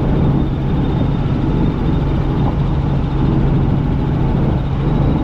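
Helicopter in flight, heard from on board: a steady drone of rotor and engine with a constant low hum and rumble.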